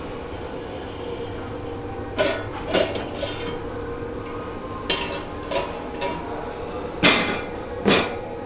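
Dishes, pans and cutlery clattering and clinking as they are handled in a dish pit, with about seven separate knocks and clanks over a steady background hum.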